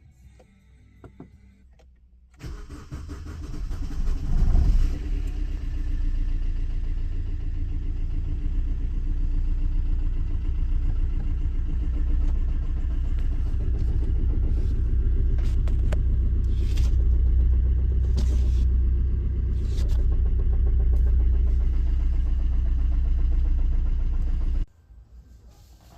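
Corsa C 1.3 CDTI four-cylinder turbodiesel engine cranking over about two seconds in, catching with a brief rev, then idling steadily for some twenty seconds before it is switched off and stops abruptly near the end. The engine is a hard starter and has a flywheel the owner calls bad.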